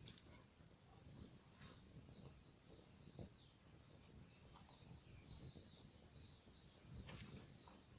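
Faint bird song: a fast run of short, falling chirps repeated several times a second, with a few faint clicks and a brief rustle near the end.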